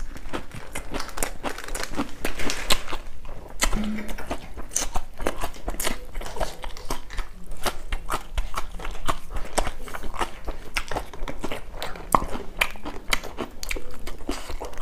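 Close-miked chewing and biting of a man eating singju, a Manipuri salad of raw greens and vegetables, by hand: a steady run of many short crunches.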